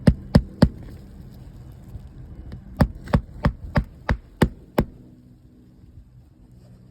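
Regular hammer driving roofing nails into an asphalt 3-tab shingle: three sharp blows, a pause of about two seconds, then a run of seven blows at about three a second that stops near five seconds in.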